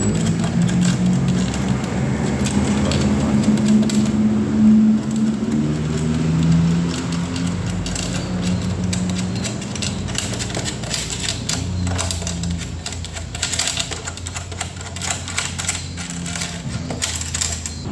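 Rapid clicking and tapping of hand tools on a mixer's metal screws and fittings as it is unscrewed, over background music with a steady bass line. The clicks grow denser in the second half.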